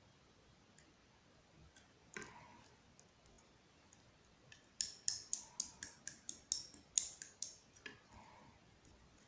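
Gold pearl slime being worked by hand: one sharp click about two seconds in, then a quick run of about a dozen sharp clicking pops in the middle, the typical sound of air pockets popping as slime is pressed and stretched.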